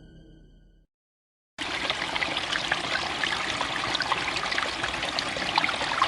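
Scary music fades out, and after a brief silence a steady sound of running, trickling water starts, dotted with many small ticks.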